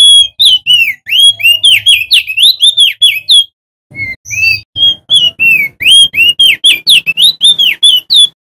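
Male crested dark-eye (opior jambul) singing. Two rapid runs of loud whistled notes, about five a second, each note sweeping sharply up or down, with a short pause about halfway through.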